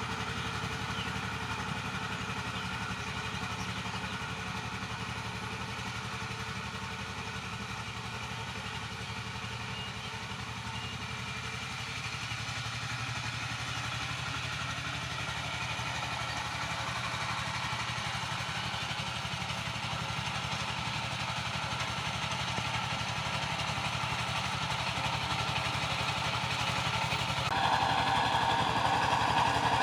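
Power tiller's engine running steadily, slowly growing louder, with a sudden jump in loudness and brightness a couple of seconds before the end.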